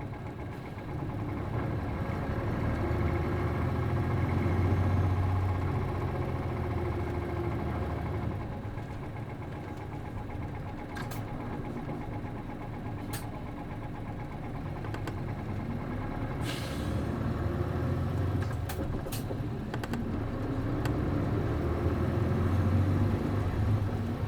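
City bus's MD92TJ diesel engine heard from inside the cabin, working harder and easing off in turns as the bus drives between stops. A short hiss of air comes about 16 s in, and a few sharp clicks come in the middle.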